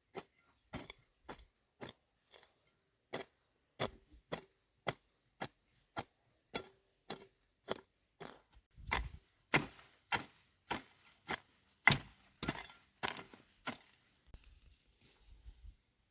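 A tool striking wood in a steady series of sharp blows, about two a second. The blows grow heavier from about nine seconds in, with the loudest near twelve seconds, then stop shortly before the end.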